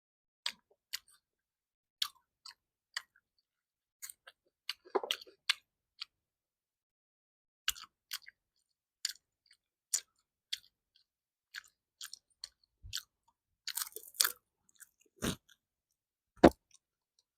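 Close-miked chewing of food: short, wet mouth clicks and smacks coming irregularly, roughly one or two a second, with busier clusters about five seconds in and around fourteen seconds.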